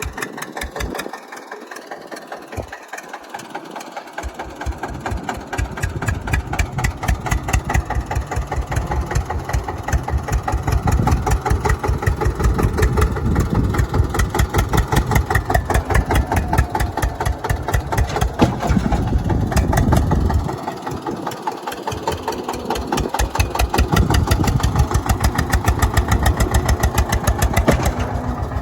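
Eicher tractor's diesel engine chugging with a rapid, even firing beat as it pulls a trolley loaded with soil. It grows louder over the first ten seconds or so and stays loud after that.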